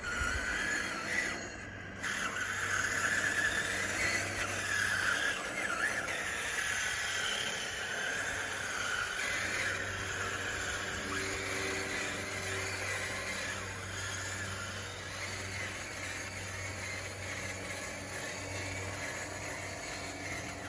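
Electric drive of a scale RC bulldozer whining and squealing steadily as it works, its hum dipping for a moment about five seconds in.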